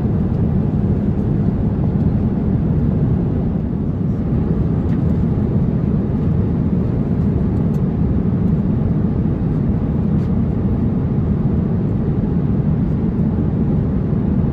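Steady low rumble of cabin noise inside an Airbus A350-900 airliner: engine and airflow noise heard from the passenger seat, unchanging throughout.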